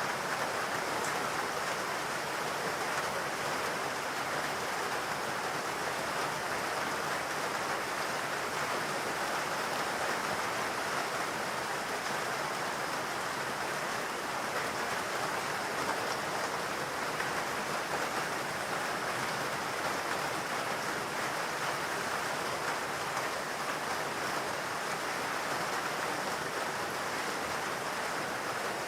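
Steady rain falling in a forest: an even, unbroken hiss.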